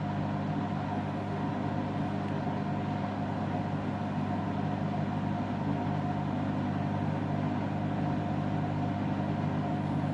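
Candy washing machine's drum spinning fast on a 1600 rpm spin, a steady motor hum and whine that holds one pitch throughout.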